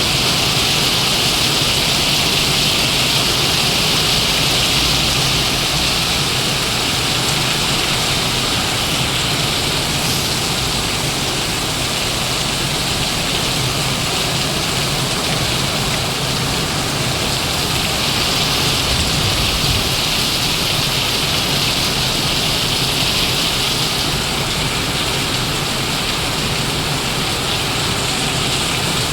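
Heavy rain pouring steadily, a dense, even hiss of water with no let-up.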